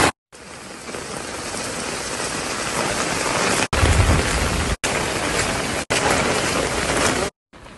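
Steady heavy rain falling on an open marble pavement, a dense hiss heard in several short clips that cut in and out abruptly. About four seconds in, one clip carries a deeper rumble under the rain.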